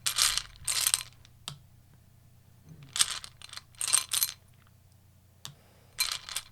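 Tarot cards being handled: three pairs of short brushing snaps about three seconds apart, with a single sharp click between them.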